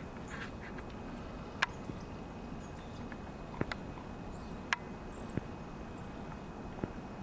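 Small birds chirping: a run of short, high chirps over a steady low hiss, with a few sharp ticks in between.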